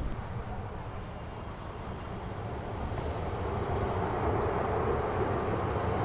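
Jet airliner engines, a steady rumbling noise that grows louder over a few seconds and then holds.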